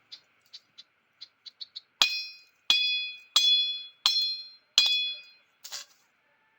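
Five sharp strikes about 0.7 s apart, starting about two seconds in, each with a bright metallic ring that dies away within half a second. Faint rapid chirps and a steady chirring from frogs or insects run underneath.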